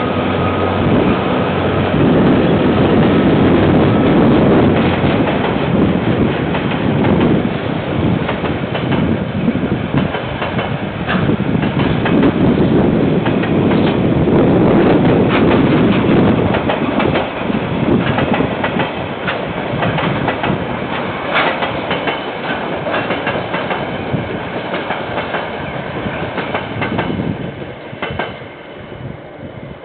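KiwiRail train's wagons rolling past, wheels clattering over the rail joints in a steady clickety-clack. The sound eases off near the end.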